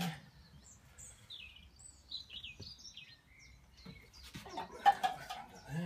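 Small birds chirping in short high calls, then a run of clicks and knocks from metal parts being handled around the engine, the loudest a single sharp knock about five seconds in.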